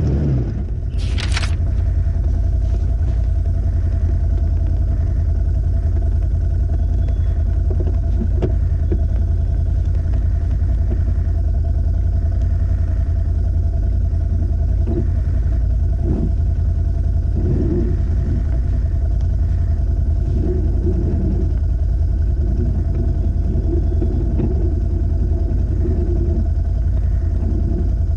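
An off-road vehicle's engine idling steadily: a constant low rumble with a steady hum.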